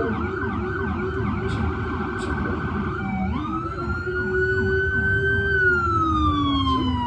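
Police car siren sounding at the head of a parade: a rapid yelp that switches about three seconds in to a slow wail, rising, holding, then gliding down.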